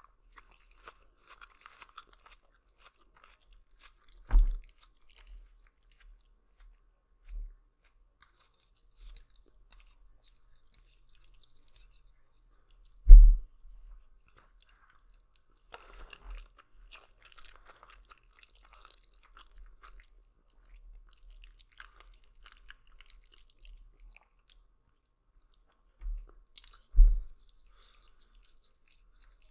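Close-miked chewing of spicy Italian noodles, with soft wet mouth crackles throughout. Three dull low thumps break in, the loudest about halfway through.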